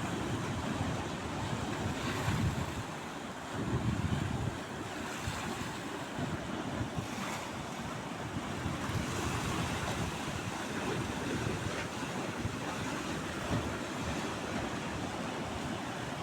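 Sea waves washing onto the shore in a steady surging rush, with wind buffeting the microphone.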